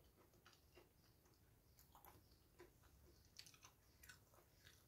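Near silence with faint eating sounds: chewing and small irregular clicks as fingers scoop rice and fried food from a glass bowl.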